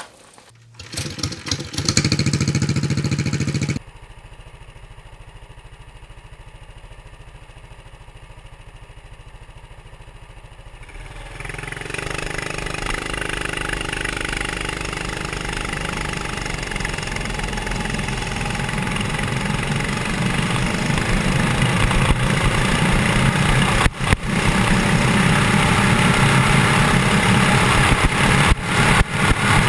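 Mini bike's 6.5 hp Honda-clone single-cylinder engine, governor bypassed and with a custom exhaust, running. It is loud for a few seconds about a second in, then cuts suddenly to quieter running. From about twelve seconds in it pulls harder, growing steadily louder as the bike gathers speed on tall gearing, with a few brief drops in sound near the end.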